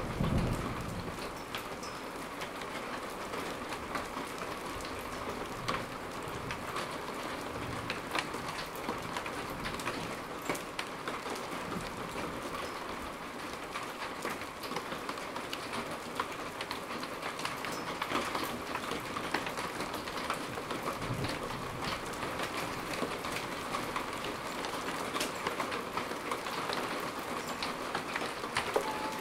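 Steady rain falling, with many individual drops ticking on nearby surfaces. A low rumble of thunder dies away in the first second.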